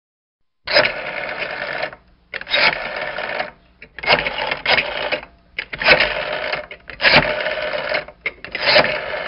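Telephone bell ringing in a repeating pattern: six rings of about a second each, with short gaps between them, starting just under a second in.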